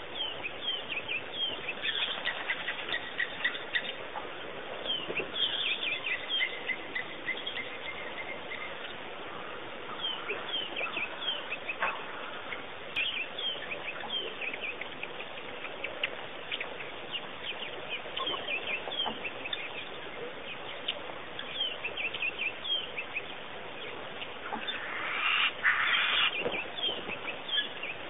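Wild birds calling: a steady stream of short chirps and calls, with a louder flurry of calling about 25 seconds in, over a steady background hiss.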